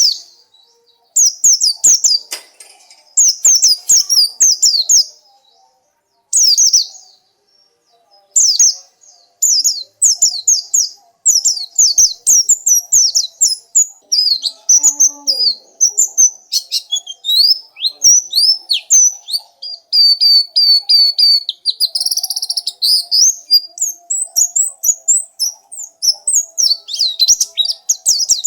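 Pleci (white-eye) singing: rapid high twittering phrases of quick down-slurred notes, in short bursts with pauses during the first eight seconds, then near-continuous.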